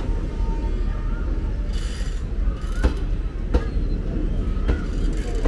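Indian Railways passenger coaches rolling slowly along a station platform: a steady low rumble, with a few sharp knocks from the wheels passing over rail joints in the second half.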